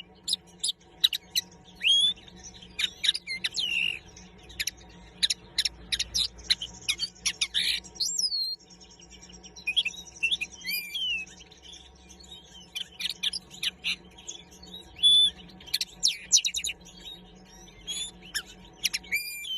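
Common linnet singing: a long, varied run of rapid twittering chirps, short trills and slurred whistled notes, broken by brief pauses.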